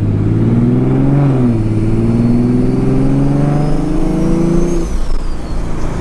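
Turbocharged inline-six car engine heard from inside the cabin, revving up briefly, then pulling with a steady climb in pitch for about three seconds before the driver lifts off about five seconds in.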